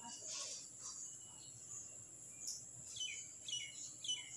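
A small bird chirping, a quick series of short falling chirps about two a second starting near the end, over a steady faint high-pitched whine.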